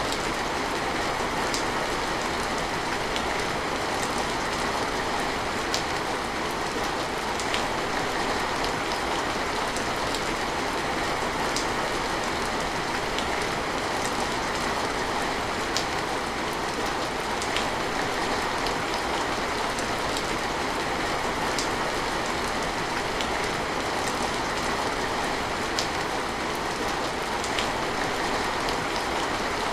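Steady rain, an even wash of falling water, with faint sharp drop ticks every couple of seconds.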